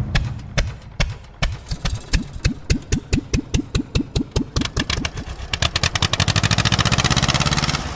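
Old engine starting: separate firing strokes, slow and spaced at first, quicken steadily and settle into an even, fast run about six seconds in.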